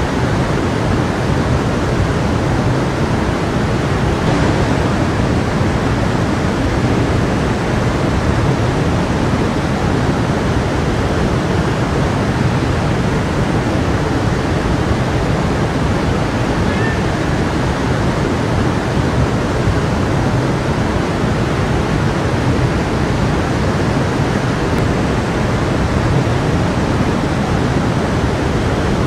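Stream water running and splashing over rocks, a steady, even rushing.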